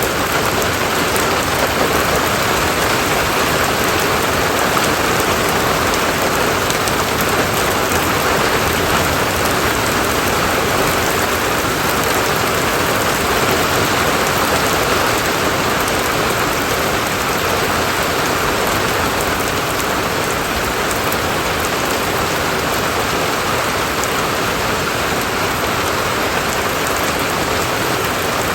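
Steady, heavy rain falling and pattering on surfaces, an even hiss of many drops with no change in strength.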